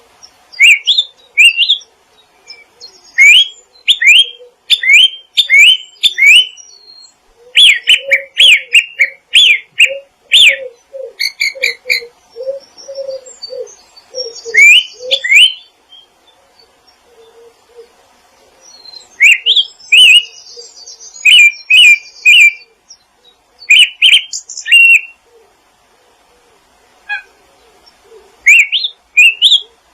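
Wild songbirds chirping: clusters of quick, rising whistled notes repeated in bursts with short pauses between them, over a series of short lower notes.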